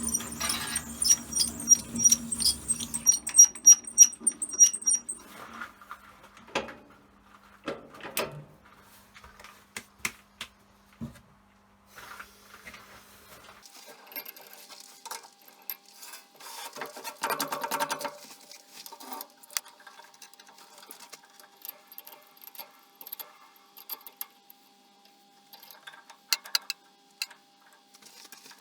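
A threading die cutting the thread on a lathe-turned shaft, squeaking in short rhythmic chirps for the first few seconds. After that come scattered metallic clicks and knocks as the tool is handled.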